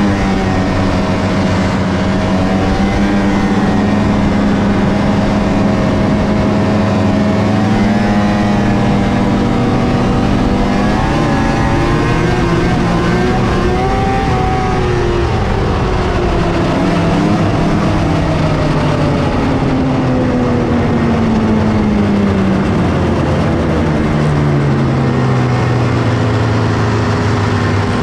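1997 Polaris XCR 600 snowmobile's three-cylinder two-stroke engine running under way through its stock triple expansion pipes. The engine speed climbs and falls several times as the throttle is worked, dropping lowest near the end before picking up again.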